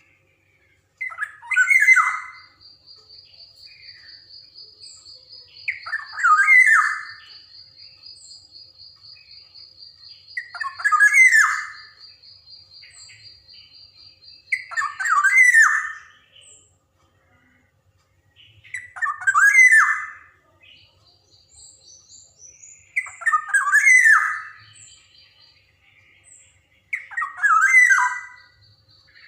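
Black-naped oriole (kepodang) giving loud, harsh calls about every four seconds, seven in all. A thin, steady, high trill runs behind them for most of the time.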